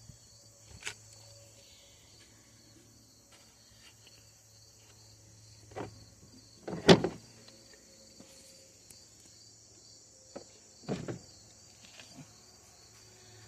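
A few scattered knocks and clicks from hands and tools handling a chainsaw during fuel-line replacement, the loudest about seven seconds in, over steady cricket chirping and a low hum.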